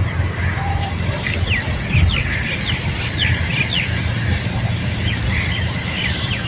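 Small birds chirping, many short, quick calls overlapping, over a steady low rumble.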